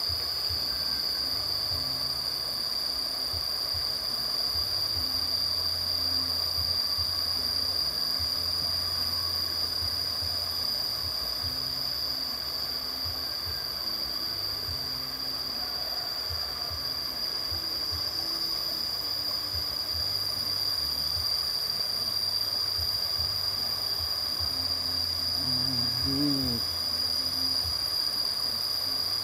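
A steady, high-pitched drone of insects, with a low rumble running underneath.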